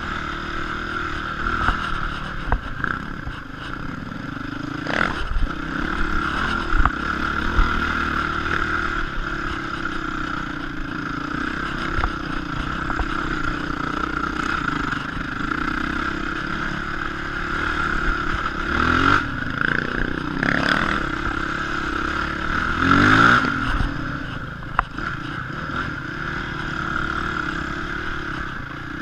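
Enduro motorcycle engine running steadily under load as the bike climbs rough ground, with the revs rising in short surges about a sixth of the way in and twice again about two-thirds through, the biggest rise near the three-quarter mark. Brief clatter from the bike over the bumpy hillside.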